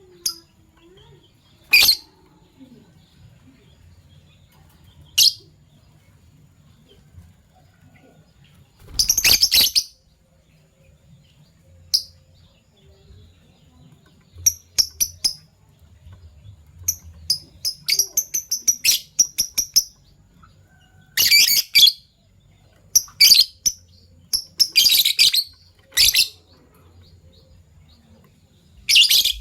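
Fischer's lovebirds calling with sharp, high-pitched chirps, some single and some in quick runs. A rapid chattering series comes in the middle, and several loud shrill calls come near the end.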